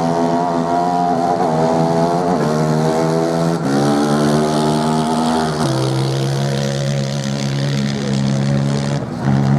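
Racing motorcycle engines running hard on the sand, their engine note holding steady and then jumping to a new pitch several times.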